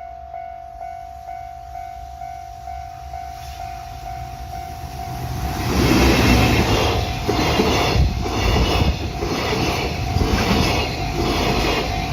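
A warning bell rings about twice a second. About five seconds in, a freight train comes by loud and close and drowns it out, its wheels clacking over the rail joints.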